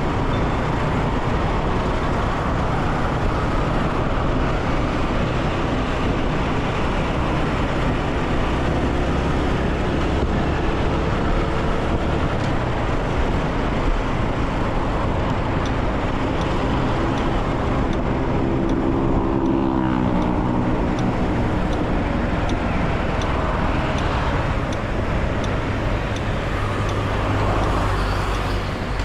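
Motorcycle ride-along: the bike's engine running under steady wind and road noise in traffic. Around twenty seconds in, an engine note falls in pitch.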